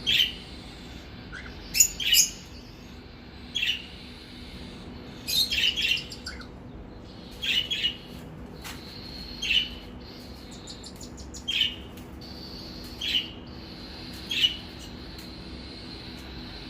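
Cockatiels chirping: short sharp calls every second or two, some in quick clusters.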